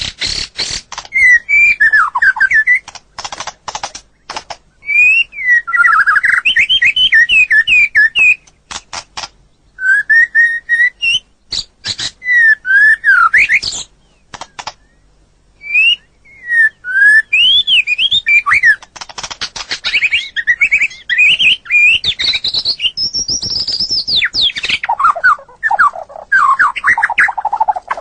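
White-rumped shama (murai batu) singing: loud, varied whistled phrases of quick rising and falling notes, broken by sharp clicking notes and short pauses.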